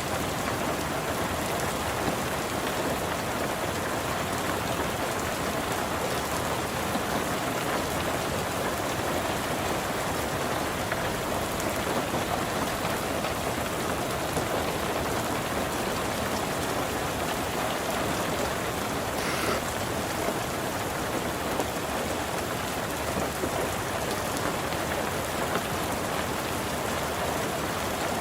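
Rain falling steadily: an even hiss of rain on a surface, with one faint brief tick about two-thirds of the way through.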